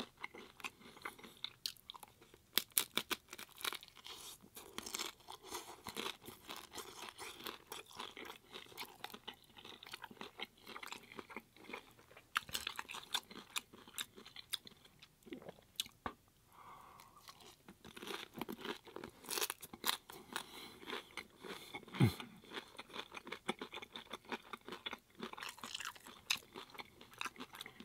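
Close-miked crunching and chewing of crispy hard taco shells, many irregular sharp crunches in a row.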